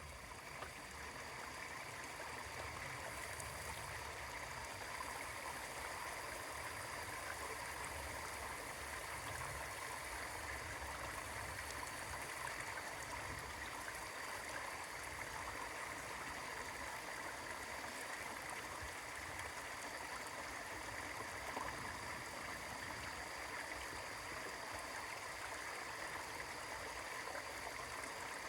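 Mountain stream flowing calmly over rocks: a steady rush of water with a low, rolling rumble underneath.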